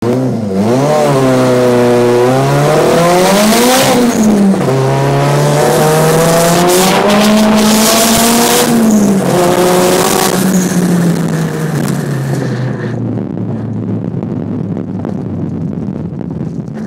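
Turbocharged car engine pulling hard under 13 psi of boost, heard from inside the car. The engine note climbs, drops sharply at a gear change about four seconds in, climbs again until about eight seconds, then falls away as the car comes off the throttle, and the rushing noise dies down about thirteen seconds in.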